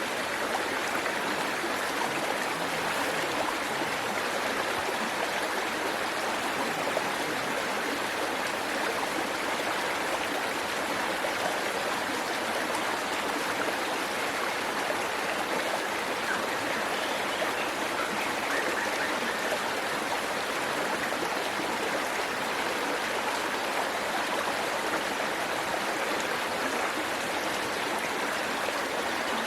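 Waterfall: falling water rushing steadily and evenly, with no break or change.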